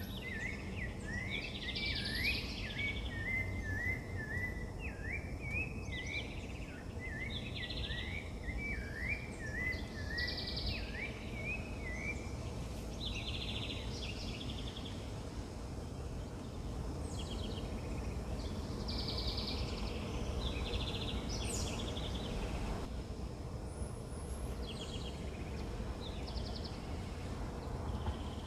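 Wild birds singing: one bird's warbling phrases for about the first twelve seconds, with other birds giving short repeated trills and chirps throughout, over a steady low rumble of outdoor background noise.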